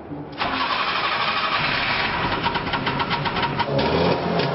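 Trabant's two-stroke two-cylinder engine firing up about half a second in and then running with a rapid, rattly beat.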